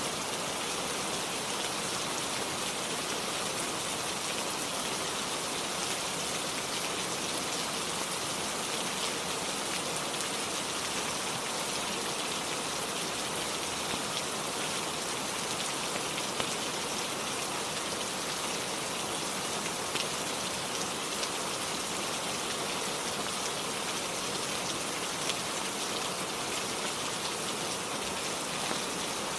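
Steady rainfall, even throughout, with a few faint sharp ticks scattered through it.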